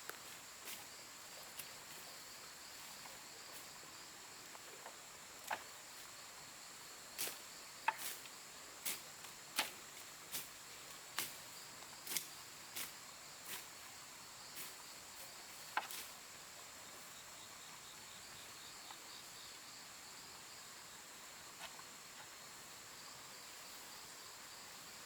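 A faint, steady, high-pitched insect chorus of crickets or cicadas, broken in the first two-thirds by about a dozen irregular sharp knocks that then stop.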